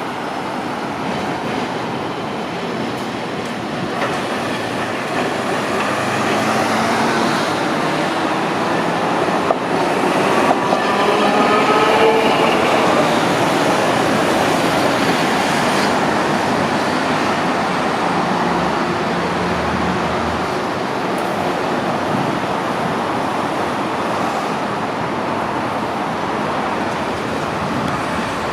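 Hiroden streetcar running through a busy intersection: steel wheels on rail, with a whine that glides up and down in pitch about ten to thirteen seconds in, over steady street traffic noise.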